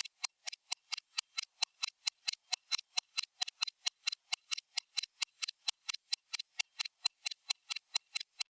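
Stopwatch ticking sound effect: a rapid, regular run of sharp, high clicks, about five ticks a second.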